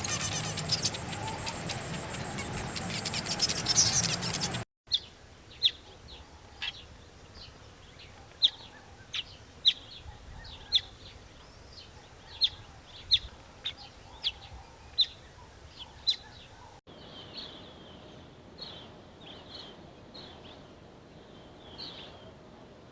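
Small birds chirping: after a few seconds of loud hiss with a high steady whine, a run of short, sharp single chirps about one every second, then softer, quicker twittering calls.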